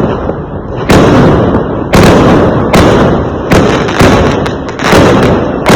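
Fireworks going off in a steady barrage: a sharp bang about once a second, each trailing off in a rumble.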